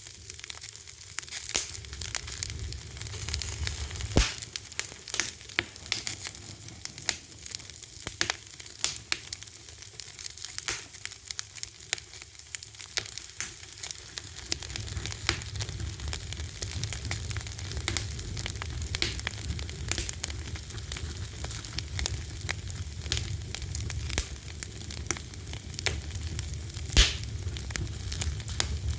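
Fire crackling, with frequent sharp pops over a steady hiss. A low rumble grows stronger about halfway through, and one loud pop stands out near the end.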